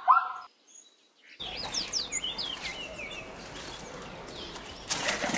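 The last of a zebra's repeated barking calls, then a short silence. Outdoor ambience follows with small birds chirping, and near the end come a run of short clicks like hoof steps.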